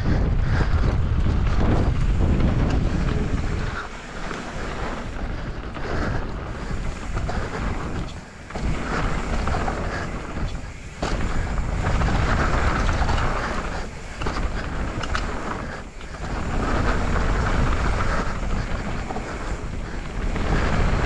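Wind rushing over an action camera's microphone, mixed with knobby mountain-bike tyres rolling over a dirt trail at speed. The level drops briefly several times.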